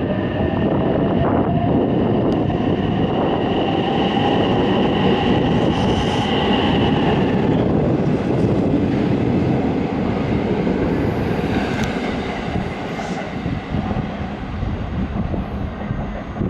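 A train moving along a station platform: a steady rumble of wheels and running gear, with a high whine that fades out about seven seconds in.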